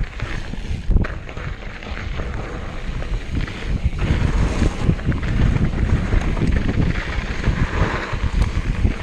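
Wind buffeting the microphone and tyres rumbling over a dirt trail as a mountain bike rides downhill at speed, growing louder as it goes, with a sharp knock about a second in.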